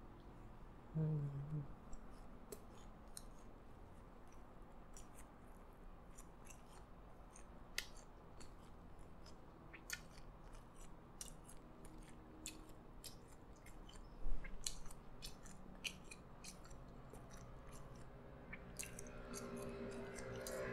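Close-up chewing of McDonald's Twister curly fries: many small crisp clicks and crunches in the mouth, with a short hum about a second in and one louder thump about two-thirds of the way through.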